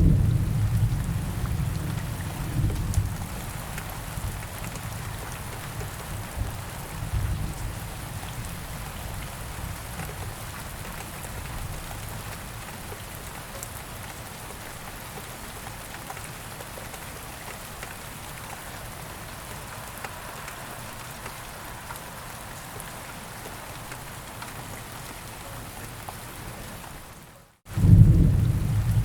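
Steady rain falling, with a low rumble of thunder that dies away over the first several seconds. Near the end the sound cuts out for a moment and a thunder rumble starts again.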